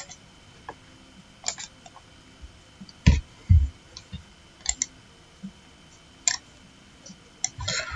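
Scattered clicks of a computer mouse and keyboard, about half a dozen spread out, with two soft low thumps about three seconds in.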